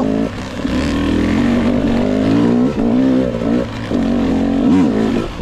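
Two-stroke engine of a 2022 GasGas EX 250 TPI enduro bike running under the rider, its pitch rising and falling with the throttle, with a quick rev up and back down near the end.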